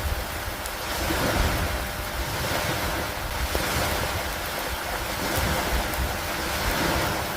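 Steady rain on a lake dock: an even hiss of rainfall with a low rumble underneath that swells and eases every second or two.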